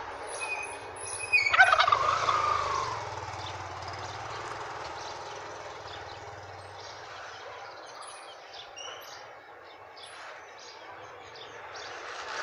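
A domestic turkey calls once, about a second and a half in: a loud, quick rattling gobble that falls in pitch.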